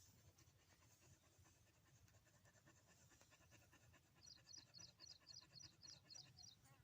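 Dog panting fast and faint, a quick, even run of short breaths, as it pants to cool off in the heat. Past the middle, a run of about ten short high chirps, about four a second, sounds over the panting.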